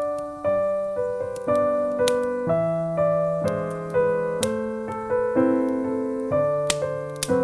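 Solo piano music playing a slow melody over sustained chords, with a few sharp crackles and pops from a log fire.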